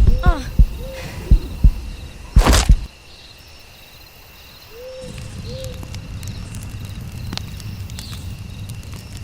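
Nighttime soundscape: thumping like a heartbeat, then a loud burst about two and a half seconds in, with a few owl hoots and a steady chorus of crickets. About five seconds in a steady low campfire crackle begins.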